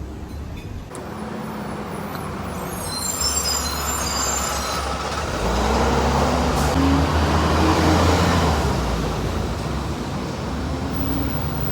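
Street traffic rumbling, swelling as a heavy vehicle such as a bus passes, loudest about six to nine seconds in. A brief high squeal sounds about three seconds in.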